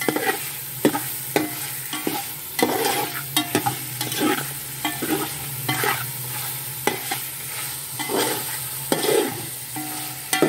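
Chicken pieces sizzling as they fry in oil and spice masala, with a spatula repeatedly scraping and knocking against the metal pot as the meat is stirred. This is the bhuna stage: the chicken browning in the masala before water is added.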